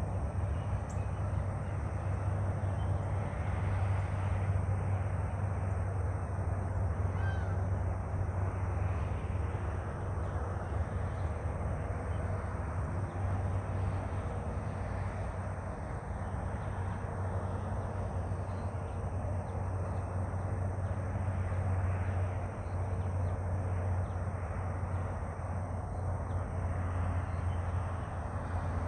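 Outdoor ambience: a steady low rumble under an even hiss, with a few faint bird calls.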